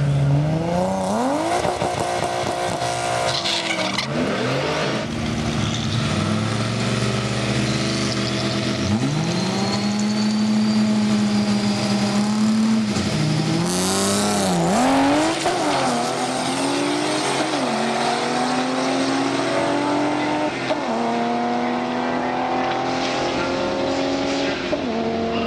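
Race car engines running at a drag strip, their pitch climbing under throttle and dropping back repeatedly, like a car pulling through gear changes. Near the end more than one engine is heard at once.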